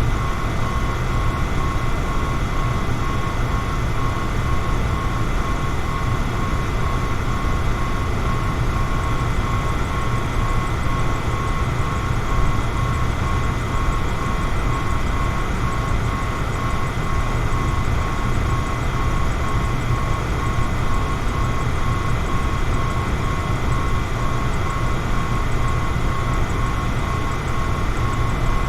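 Electric fan running steadily: an even rush of air, heaviest in the low end, with a faint steady high whine held on one pitch.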